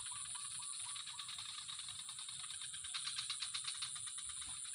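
Rapid, evenly spaced ratchet-like clicking over a steady high-pitched hiss.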